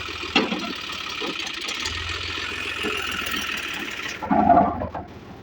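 Tractor engine running steadily, with a sharp knock about a third of a second in. A little after four seconds the engine sound drops away and a short, louder sound follows.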